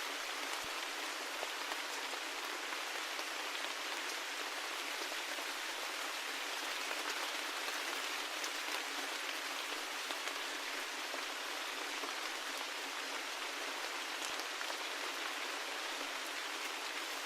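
Steady rain falling, an even hiss with faint individual drops ticking through it.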